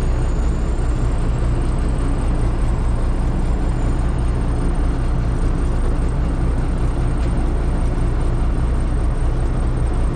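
Engine of a vintage Mack LT truck idling steadily, heard from inside the cab.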